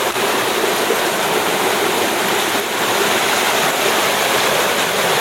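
Floodwater in a rain-swollen creek rushing steadily over and through a cinder-block dam, a loud continuous roar of pouring water.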